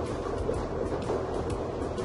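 Lottery draw machine churning its balls, a steady rumble with scattered irregular clicks of balls knocking together, over background music.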